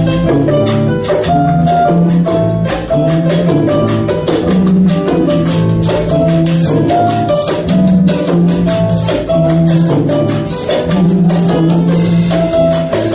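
Live salsa-style band groove: a repeating keyboard montuno pattern on the 2-3 clave over a bass line, with hand percussion and shakers playing dense, quick strokes throughout.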